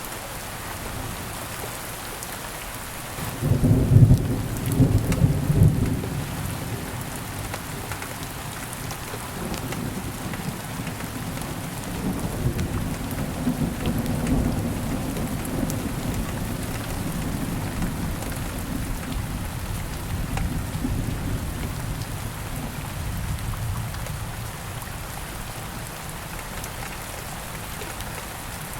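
Steady rain, with a clap of thunder about three seconds in that rolls on as a long low rumble and slowly dies away over the next twenty seconds.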